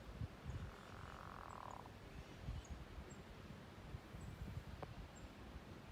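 Faint outdoor ambience: a low rumble on the microphone, with a faint, high, short chirp repeating about once a second and a single click near the end.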